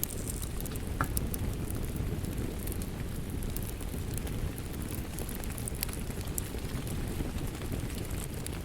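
Wood fire crackling in a fireplace: a steady low rumble of flames with scattered sharp pops and snaps, one stronger pop about a second in.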